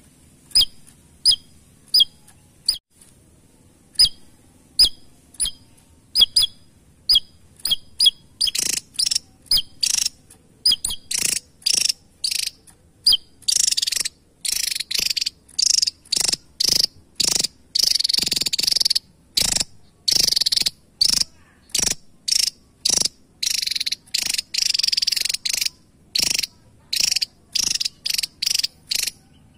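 Javan tesia calling: a series of short, sharp, high notes about one or two a second, breaking from about nine seconds in into faster, harsher, longer bursts that run almost without pause, then back to short notes near the end.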